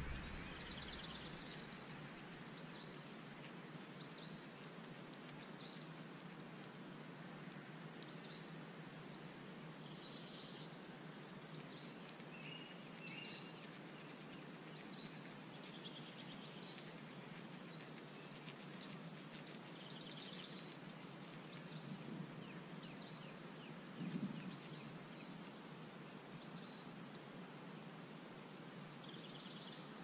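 Small songbirds chirping: short, high chip notes repeated about once a second, with a brief louder flurry of calls about twenty seconds in, over faint outdoor ambience. A soft low thump sounds a few seconds later.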